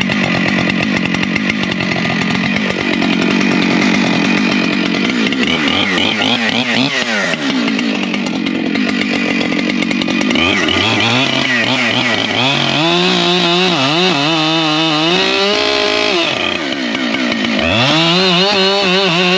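Husqvarna 592 XP chainsaw running hard through a log, its engine note sagging and recovering as the chain loads in the cut. Near the end it dips, then climbs back to a steady high whine.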